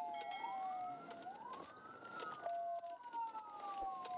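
Police car siren wailing, its pitch sliding slowly up and down in repeated cycles of a couple of seconds.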